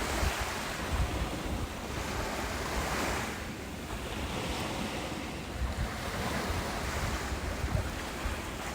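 Ocean surf washing onto a beach, the rush of water rising and falling in slow swells every few seconds. Wind buffets the microphone in low, uneven rumbles.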